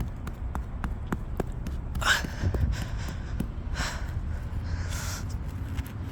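Digging in dirt by hand: scattered small clicks and crunches of soil and stones being worked loose, with three short rushing noises about two, four and five seconds in.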